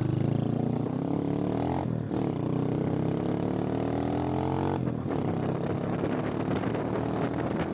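Motorcycle engine accelerating, its pitch rising steadily, dropping at gear changes about two seconds and about five seconds in, then pulling again.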